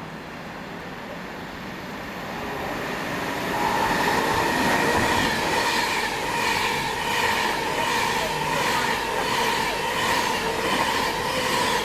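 Passenger train running along the West Coast Main Line, growing louder over the first few seconds, then passing close with a steady whine and wheels clicking over the rail joints about twice a second.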